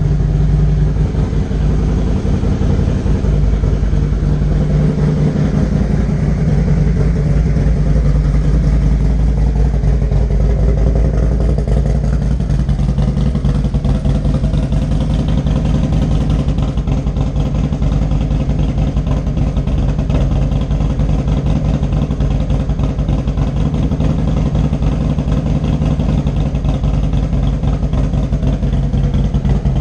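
Harley-Davidson Street Glide's Twin Cam 103 V-twin, fitted with 585 cams, idling steadily through a D&D Fat Cat 2-into-1 exhaust while it warms up after a cold start.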